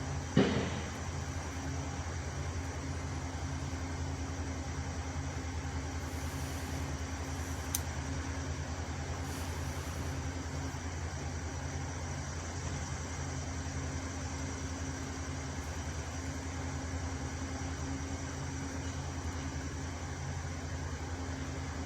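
Truck engine idling steadily with a low hum, and one sharp bang about half a second in.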